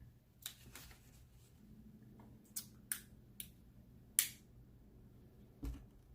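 A string of sharp clicks and crackles, spaced out rather than continuous: a plastic container or packet being worked open by hand. One dull thump follows near the end.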